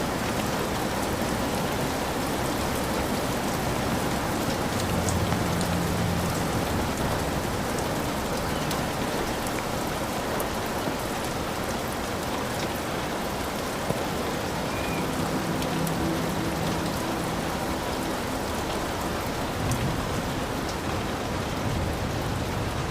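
Heavy rain falling steadily on a hut, with low rumbles of thunder twice, about a quarter and two-thirds of the way through.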